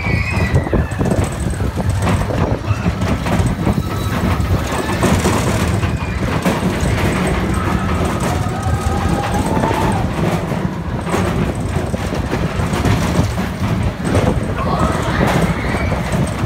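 Mine-train roller coaster cars running along the track: a steady loud rumble and rattle of wheels on rails, with many small clacks.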